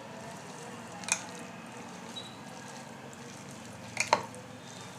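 Hands mixing boneless chicken pieces in a thick, wet marinade of egg, cornflour, flour and soy sauce, making soft squelching. A short sharp click about a second in and two more close together about four seconds in.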